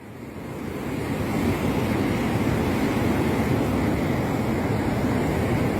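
Floodwater rushing out through the Tarbela Dam spillways: a heavy, steady roar of water that swells in over the first second or so and then holds.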